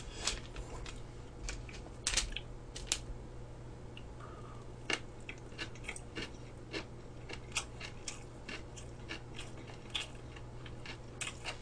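Close-miked chewing of crispy deep-fried food, with irregular sharp crunches and crackles, a few louder bites around two, three and five seconds in.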